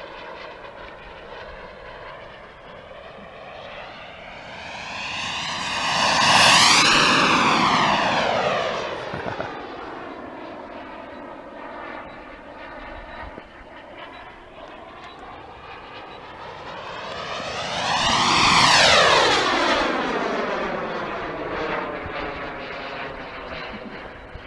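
Radio-controlled model Eurofighter jet making two high-speed passes. Its engine whine swells to a loud peak about six seconds in and again about eighteen seconds in, and drops steeply in pitch each time as it goes by. Between and after the passes it holds a quieter, steadier whine.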